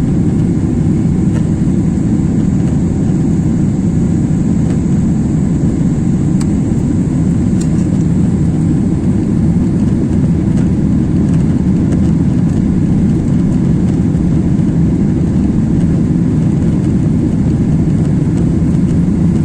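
Steady, low roar of an airliner's jet engines and rushing air, heard from inside the cabin.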